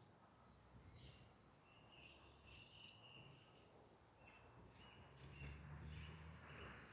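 Faint birdsong: short, high, thin calls about two and a half seconds in and again a little after five seconds, over a low background rumble.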